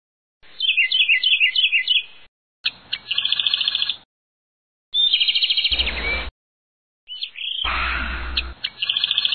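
Bird chirping and twittering as a cartoon nature sound effect, played in several short snippets with abrupt silent gaps between them. A brief low hum sits under two of the later snippets.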